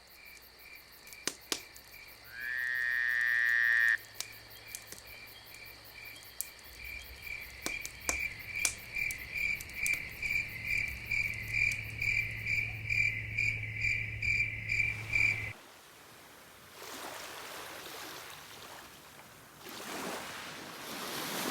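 Insects chirping in a steady, even rhythm, about three chirps a second, with a louder rising call about two and a half seconds in. The chirping stops suddenly about fifteen seconds in and gives way to a soft rushing noise.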